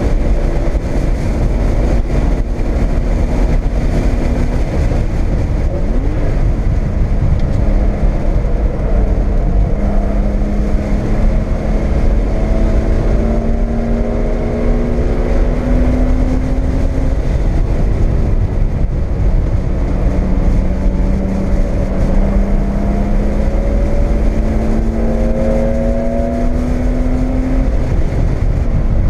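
Porsche 911SC's air-cooled 3.0-litre flat-six with an SSI header and Dansk two-in-two-out muffler, heard from inside the cabin at speed over heavy wind and road rumble. The engine note climbs steadily through two long pulls, each ending in a sudden drop in pitch.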